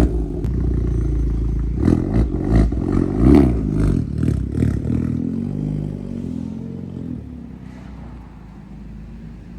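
Honda Civic Type R FL5's turbocharged four-cylinder through an aftermarket straight-pipe exhaust, blipped through several quick revs with sharp pops, then dropping back to a steady idle about five seconds in.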